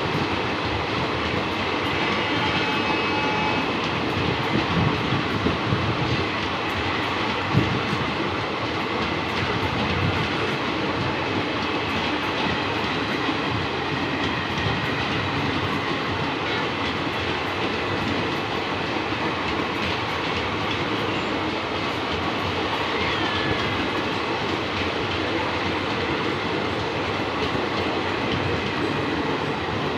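Indian Railways ICF passenger coaches rolling past: a steady noise of wheels running on the rails, with clickety-clack as the wheels cross rail joints.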